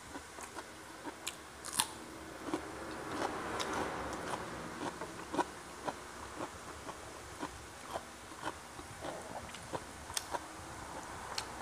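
Close-miked eating sounds of a person eating fried catfish, rice and raw vegetables by hand: chewing with many short, irregular mouth clicks and soft crunches.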